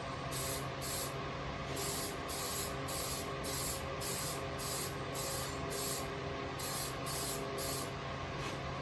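Aerosol spray paint can (rattle can) spraying in about thirteen short bursts, each under half a second, with brief pauses between, roughly two a second.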